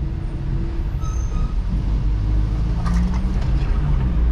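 Steady low rumble of a car driving on the road, with the drone of a heavy lorry's engine close by.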